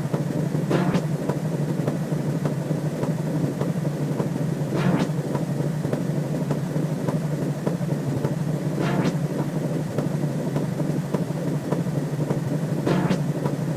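Synthesized sci-fi sound effect playing on a loop: a steady low hum under fast, even ticking, with a short swish about every four seconds.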